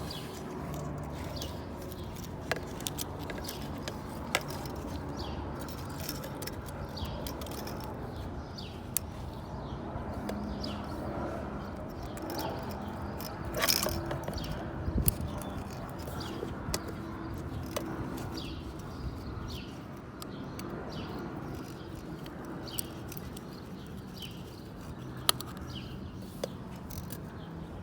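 Small metallic clicks and light scraping of a feeler gauge being worked into the intake valve clearance, between valve stem and rocker adjuster, on a Lifan Lycan 250 motorcycle engine, over a steady low hum. One sharper click comes about halfway through.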